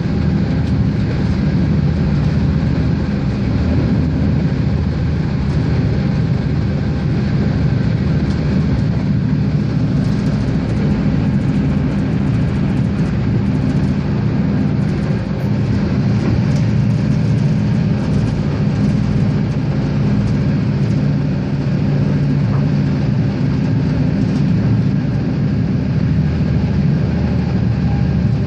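Regio-Sprinter diesel railcar running along the line: a steady engine drone with wheel and rail noise, unchanged throughout.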